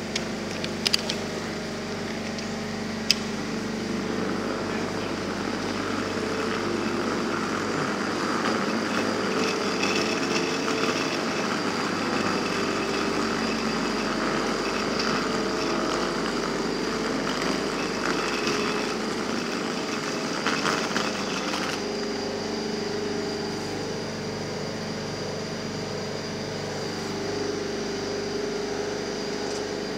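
Steady hum of electric passenger trains standing at the platform, their onboard electrical and ventilation equipment running, made of several held tones over a noisy bed. A few sharp clicks come in the first three seconds.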